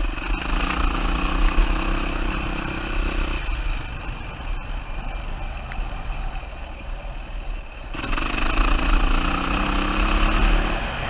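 2007 Yamaha WR450's single-cylinder four-stroke engine running under throttle, easing off about three seconds in and picking up again, rising in pitch, about eight seconds in.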